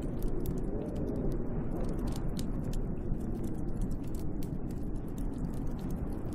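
Snowstorm wind blowing steadily, a deep rush with a faint howl that wavers in pitch, heard from inside a cabin. Small, sharp crackling clicks are scattered throughout.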